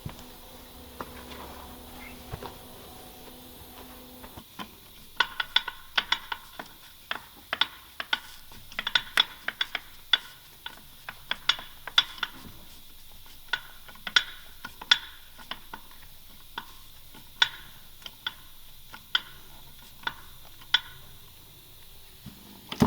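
Tyre-sealant hand pump and its tube being worked at the tractor tyre valve: an irregular series of sharp, slightly ringing clicks, one to three a second, starting a few seconds in and stopping near the end.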